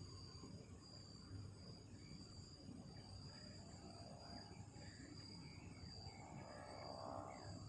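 Faint chirring of night insects: a steady high-pitched band that pulses about once a second, over a low rumble.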